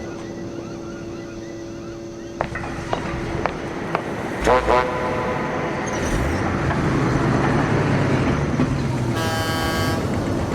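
Cartoon vehicle sound effects: a short horn toot about four and a half seconds in, and a longer horn blast near the end, over a steady hum, a few light clicks and a low rumble.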